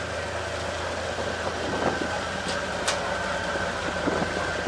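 Steady mechanical hum from machinery at a ferry jetty, with a high whine held throughout and a few sharp clicks around the middle.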